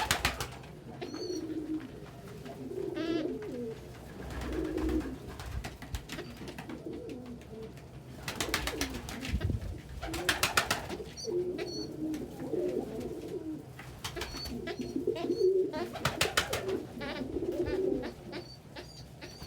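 Domestic pigeons cooing over and over, with a few brief high chirps and three short noisy flurries partway through.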